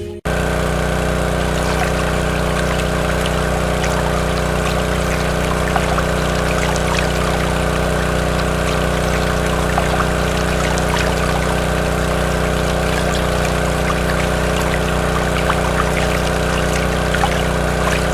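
A small electric motor hums steadily, running a miniature water pump, with water pouring and trickling.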